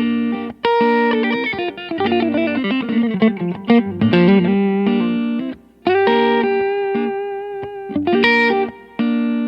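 PRS Modern Eagle V electric guitar playing a lead lick: held notes and a quick run of single notes, a brief stop a little past halfway, then a long sustained note.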